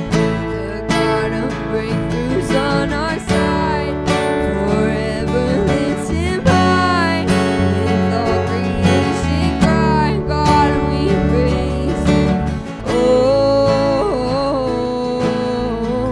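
Worship band music: strummed acoustic guitar over a full band, with a melody line that bends in pitch above it.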